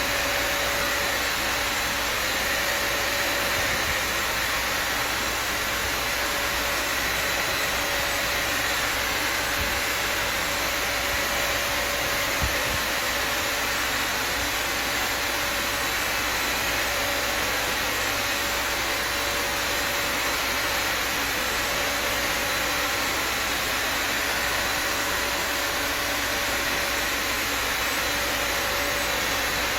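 Vacuum cleaner motor running steadily: a constant loud rushing noise with a steady whine on top.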